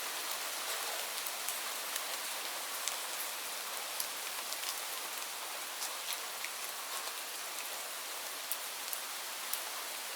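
Steady rain falling, a constant hiss with scattered sharper taps of individual drops striking a surface.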